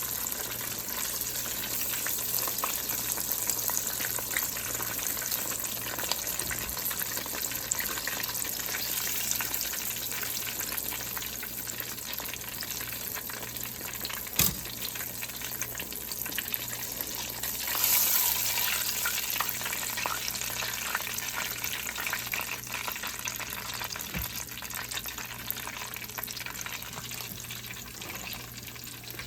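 Flour-coated chicken pieces deep-frying in vegetable oil: a steady crackling sizzle, with a single knock about halfway through and a brief louder surge of sizzle a few seconds later.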